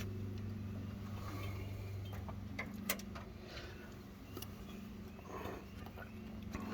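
Faint clicks and taps of metal parts handled while a throttle linkage is hooked up to a carburetor, with one sharper click about three seconds in, over a steady low hum.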